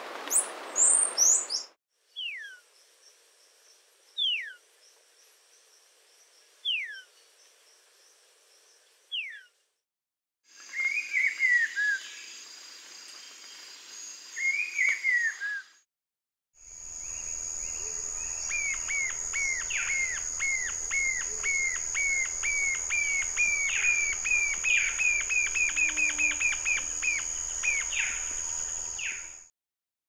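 A run of separate bird recordings: clear whistled notes sliding down, spaced about 2.5 s apart; then two rough falling calls; then a jacamar's song, a long series of short high piping notes that speeds up, over a steady high hum.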